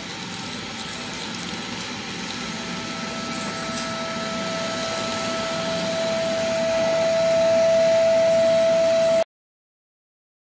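Einhell TC-VC 1930 AC wet/dry workshop vacuum cleaner running: a steady rush of air with a motor whine that grows gradually louder, then cuts off abruptly near the end.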